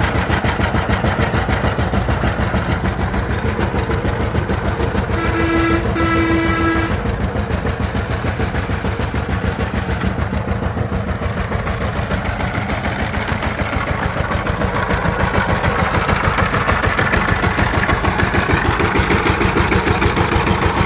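Diesel engine running steadily with a fast, even beat, getting a little louder near the end. A horn sounds twice in quick succession about five seconds in.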